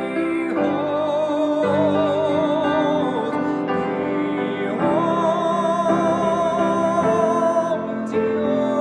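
Classically trained solo voice singing a sustained melody with wide vibrato over piano accompaniment, with a long held note from about five seconds in.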